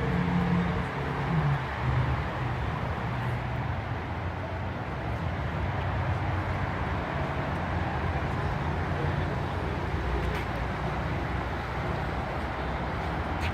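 A car engine running at idle, its low hum shifting in pitch now and then, over faint voices.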